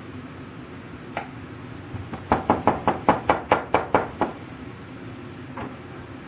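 Knocking: one knock, then a quick run of about ten knocks at about five a second, then another single knock.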